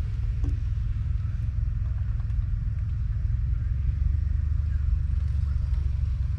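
International Harvester 1055 tractor's 5.9-litre six-cylinder diesel engine running steadily, a low rumble that grows a little stronger about four seconds in.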